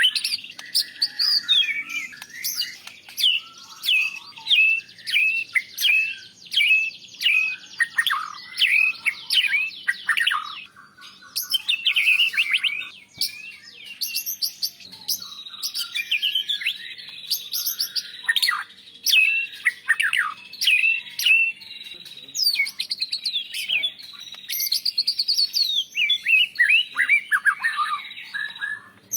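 White-rumped shama (murai batu) singing: a long run of short, clear whistled notes, many of them falling in pitch, at about two a second, broken by a couple of brief pauses.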